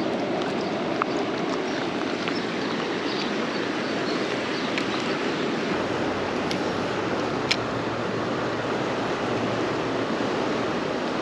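Steady rush of flowing river water, with a few faint light clicks over it.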